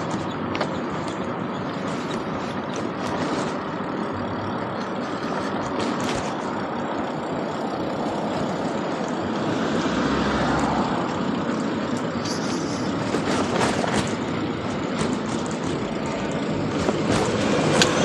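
Steady vehicle noise with scattered sharp clicks and knocks, swelling louder briefly about ten seconds in and again near the end.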